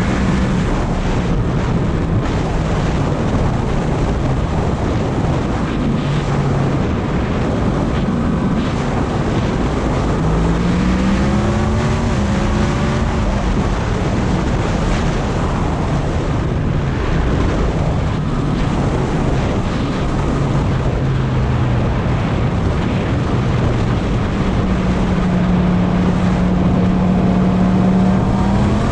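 Heavy wind noise on the microphone over a Yamaha MT-10's crossplane inline-four engine running at a steady cruise. The engine note climbs as the bike accelerates, once about a third of the way in and again at the very end.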